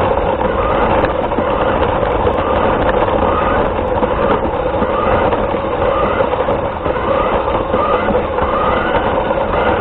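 RC car's motor and drivetrain running with steady rolling and gear noise, its pitch rising and falling slightly about once a second, heard through a small onboard camera microphone.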